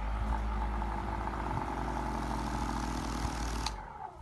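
AutoSpa 9–10 inch orbital polisher running at speed with its pad not yet on the paint: a steady electric-motor hum with a whine. It switches off near the end and winds down.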